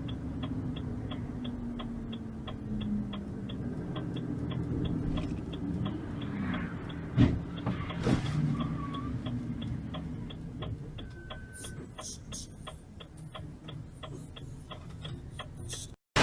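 Car turn-signal indicator ticking steadily, about two to three clicks a second, over low engine and road rumble. A single sharp thump about seven seconds in is the loudest sound.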